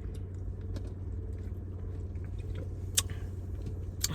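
Car engine idling steadily, heard from inside the cabin, with small clicks of chewing and biting into food over it and a sharper click about three seconds in.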